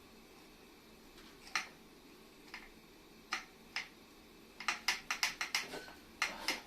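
Sharp clicks and light knocks from metal parts and tools being handled during disassembly of the compressor. A few single clicks come first, then a fast run of about eight near the end.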